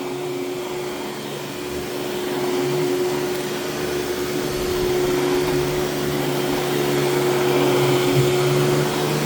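Royal Deluxe Power Team vacuum cleaner with its power nozzle running on full power over carpet: a steady motor whine and airflow hiss with a constant hum, getting somewhat louder over the first few seconds.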